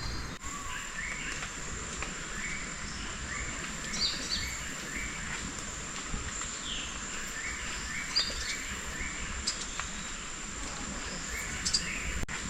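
Tropical rainforest ambience: birds calling in short, repeated chirping notes over a steady, high-pitched insect drone.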